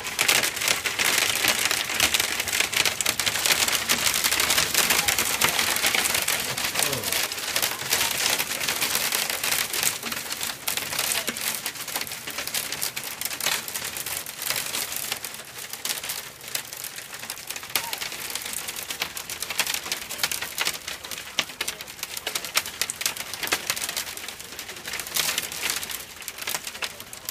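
Heavy thunderstorm rain mixed with hail pelting a window pane: a dense, crackling patter of hits, heaviest over the first several seconds and easing a little after that.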